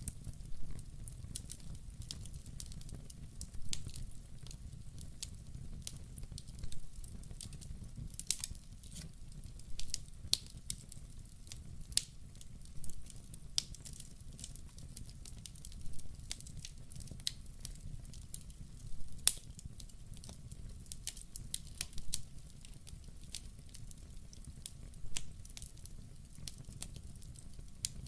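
Wood fire burning in a fireplace: a steady low rumble under frequent irregular crackles, with louder pops every few seconds.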